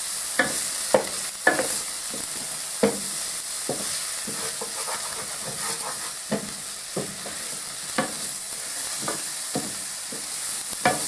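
Garlic frying in olive oil in a pan, a steady high sizzle, with a utensil knocking and scraping against the pan at irregular moments as it is stirred.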